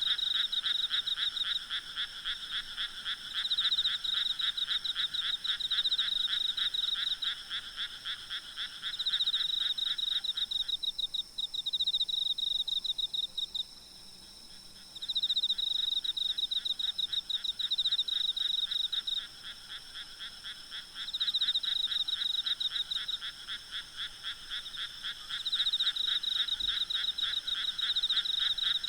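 A chorus of frogs calling at night in rapid trains of croaks that come in bouts with short pauses between them. A steady high insect trill runs underneath.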